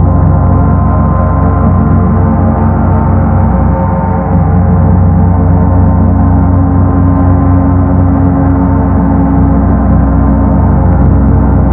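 Paiste Sedna planet gong sounding with a steady, dense rumble of many overlapping tones, swelling again slightly about four seconds in.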